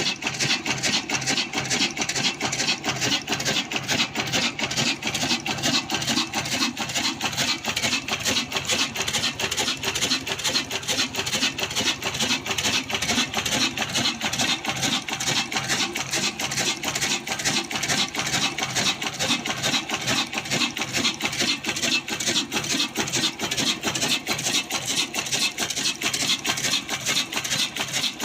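Old black single-cylinder diesel engine running steadily while driving a stone flour mill (aata chakki), a fast, even rhythmic clatter with a rasping grind from the mill.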